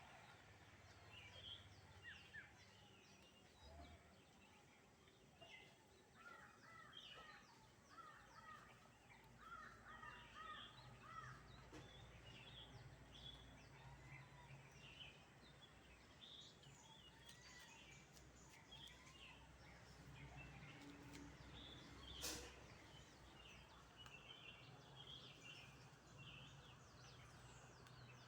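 Faint outdoor ambience of birds calling: many short chirps throughout and a run of quickly repeated calls early on, over a low background hum, with a single sharp click about two-thirds of the way through.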